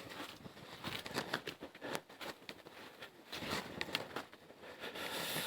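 Twigs and small branches being handled and broken, giving irregular small cracks and rustles.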